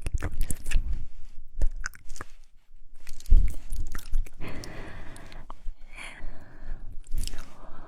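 Close-miked ASMR mouth sounds: a run of wet clicks and smacks that sound like chewing, with a short lull about two seconds in and stretches of breathy hiss in the second half.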